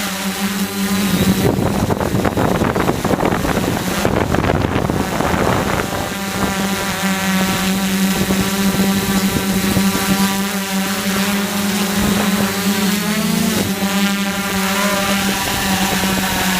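DJI F450 quadcopter's motors and propellers humming steadily in flight, with wind rushing over the microphone, heaviest in the first few seconds. The pitch lifts briefly about 13 seconds in.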